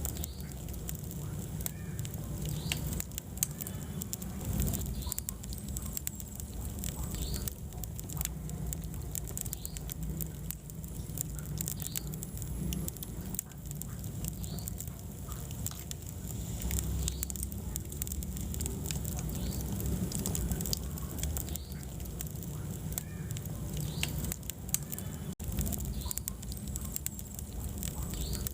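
Wood fire burning in a fireplace, crackling with frequent small pops and snaps over a low, steady rumble of flames.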